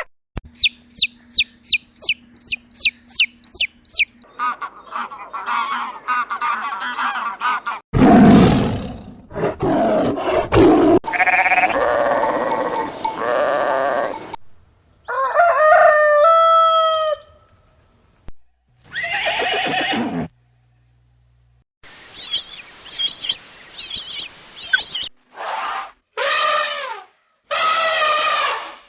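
A run of short recordings of different animals calling, cut one after another with brief gaps between them. Farm animals and fowl are among the callers.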